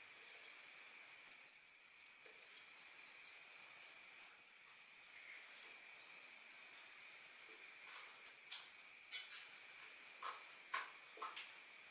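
Orange-headed thrush giving its thin, high 'ngecis' call: three short whistles, each falling in pitch, a few seconds apart. This is a lure call for drawing in males. A steady high insect trill runs underneath, with a few clicks in the second half.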